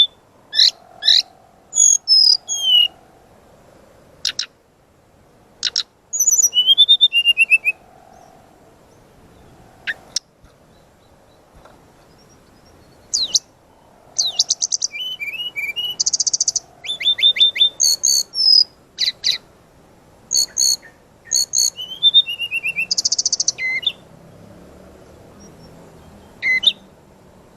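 A small songbird singing a busy, varied song in bursts: rapid high trills, chips and sweeping whistled notes, broken by short pauses.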